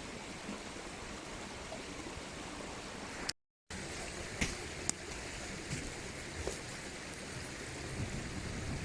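Mountain stream flowing steadily, broken by a brief dropout of sound about three and a half seconds in, then flowing on with a few sharp clicks over it.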